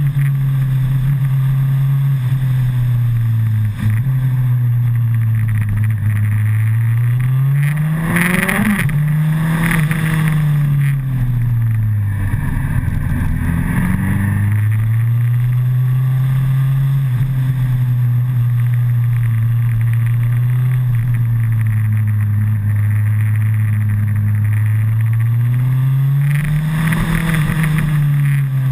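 2008 Suzuki Hayabusa's inline-four engine running under a rider through canyon bends, heard from a camera mounted on the bike, with wind rushing past. The engine note holds mostly steady, climbs as the throttle opens about eight seconds in and again near the end, and drops back low in between as the bike slows.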